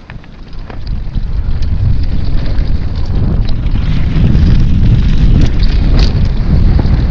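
Heavy wind buffeting the camera microphone as a mountain bike rides downhill at speed, building over the first second and then staying loud, with scattered clicks and rattles from the bike over rough ground.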